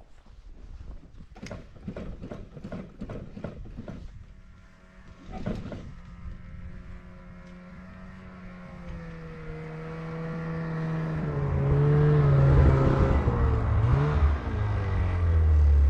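Snowmobile engine that has no choke or electric start, being cranked with a run of short strokes. It catches about six seconds in, runs steadily, then revs up and gets louder toward the end.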